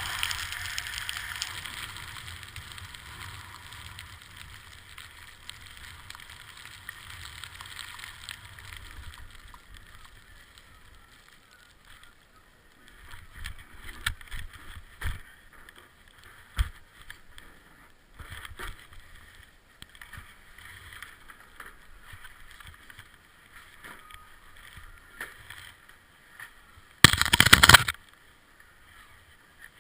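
Skis hissing over snow, fading over the first ten seconds as the skier slows to a stop. Scattered knocks and clicks follow, then a loud burst of rushing noise about 27 seconds in.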